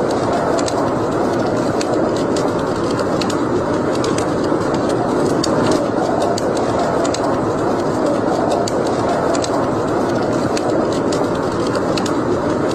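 Wood fire burning in a fireplace: a steady rushing noise with frequent small, irregular crackles and pops.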